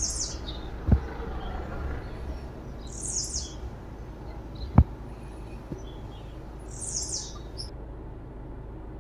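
A bird calling three times, each a short high chirp that falls in pitch, about every three to four seconds, over a steady low background noise. A sharp knock near the middle is the loudest sound, with a softer thump about a second in.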